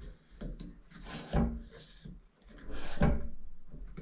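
A few rubbing, scraping strokes of something being handled, the last and loudest about three seconds in, tailing off slowly.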